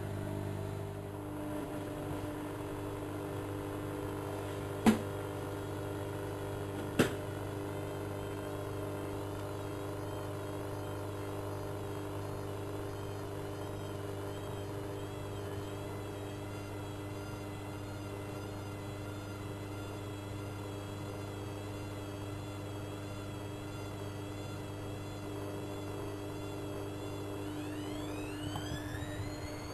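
Bauknecht WA1400 Dolphin washing machine running: a steady motor hum with a faint high whine, two sharp clicks about five and seven seconds in, and whining tones that sweep in pitch near the end.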